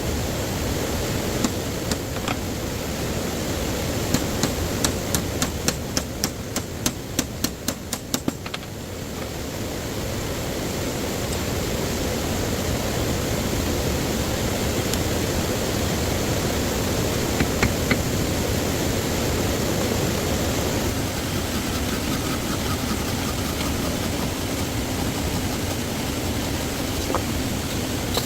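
Steady rush of stream water. About four seconds in, a quick run of a dozen or so sharp knocks lasts about four seconds.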